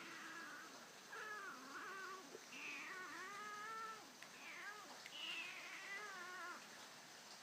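A cat meowing: several long, wavering meows that start high and fall in pitch, each lasting one to two seconds.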